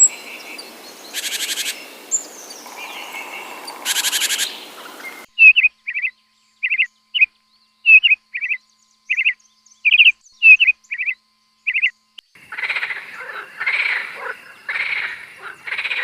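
Animal calls in three cut segments. First a hissy stretch with two short buzzing trills, about a second in and near four seconds in. Then a quick run of short, high chirps on a silent background, then repeated fuller calls about once a second.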